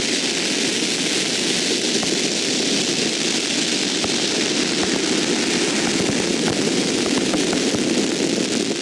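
Steady rushing hum of a large swarm of quadcopter show drones in flight, with no single pitch and no bangs.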